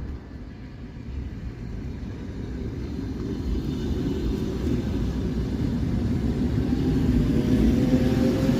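ED4M electric multiple unit pulling away and accelerating: a low rumble that grows steadily louder, with the traction motors' whine rising slowly in pitch toward the end.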